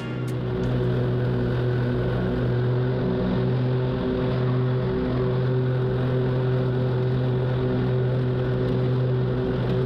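Zero-turn lawn mower engine running steadily while mowing, a constant hum that holds the same pitch throughout.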